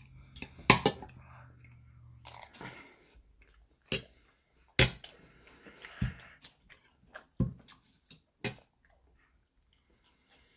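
Close-up chewing and mouth sounds of someone eating banana foster French toast, broken by about half a dozen sharp clicks of a fork and knife against the plate.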